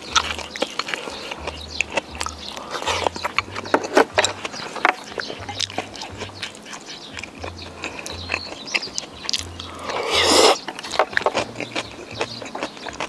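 A person eating close to the microphone: chewing with many small sharp clicks and smacks, and a louder rushing burst lasting under a second about ten seconds in.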